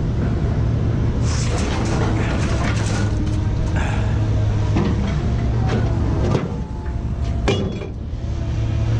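Vehicle engine running steadily with a low hum, with scattered knocks and rattles and one sharp knock about seven and a half seconds in.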